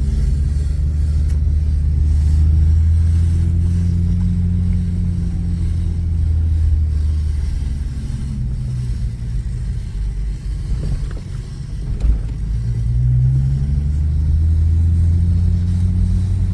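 Infiniti G37 sedan's V6 engine and road noise heard from inside the moving car: a steady low drone that swells and eases as the speed changes. It dips briefly about ten seconds in, and a single knock follows soon after.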